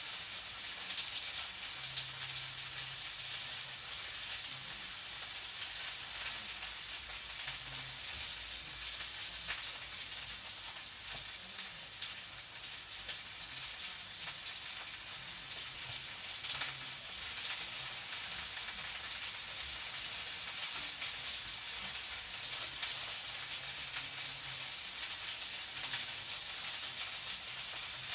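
Food sizzling and crackling steadily in a frying pan, a dense hiss full of tiny pops.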